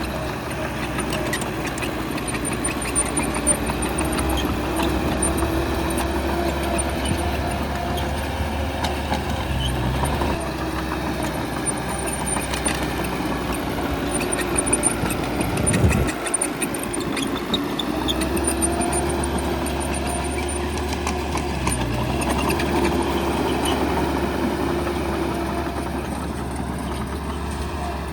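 Bulldozer's diesel engine running under working load, its note rising and falling as it pushes dirt. There is a brief sharp sound and a short drop in the engine sound about halfway through.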